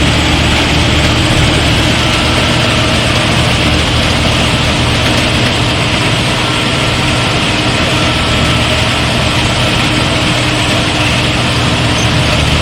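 Rice combine harvester running steadily as it works: a low, even engine drone with a constant rush of machinery noise over it.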